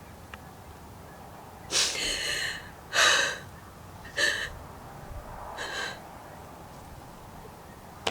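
A woman crying with joy: four gasping, sobbing breaths in quick succession over about four seconds.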